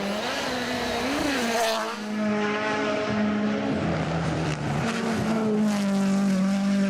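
Rally car engine running hard on a snow stage. Its note rises and dips over the first two seconds, then holds steadier.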